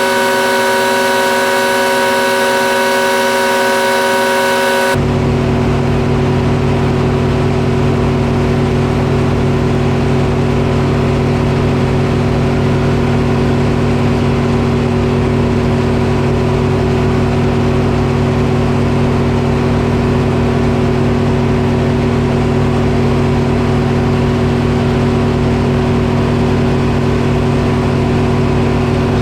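Detroit Diesel engine powering a Frick sawmill, running steadily. About five seconds in, the sound changes abruptly from a set of steady high whining tones to a deep, even engine drone.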